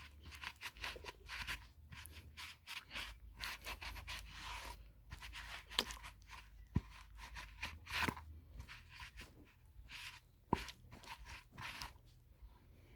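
Hand cleaning of a lawn mower wheel: a run of quick scraping, scrubbing strokes, with a few sharp clicks between them.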